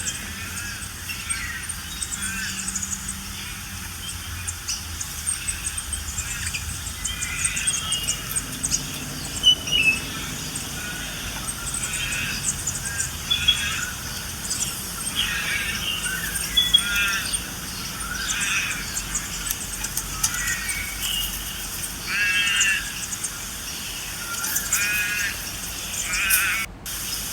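Wild birds chirping and calling in short repeated phrases, with a few quick trilled calls near the end.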